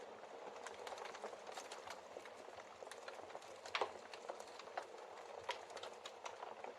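Wood fire crackling in a fireplace, with irregular pops and snaps, the loudest about four seconds in, over a steady hiss of rain.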